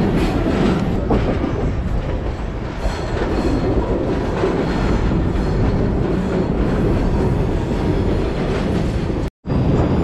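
Passenger train running along the track, heard from its open-air car: a steady rumble of wheels on rails. The sound drops out for a moment near the end.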